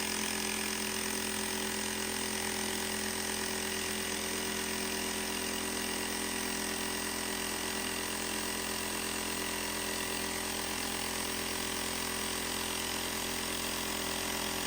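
Jigsaw fitted with a carbide-grit ceramics blade running at a steady speed, an even mechanical drone that holds level throughout.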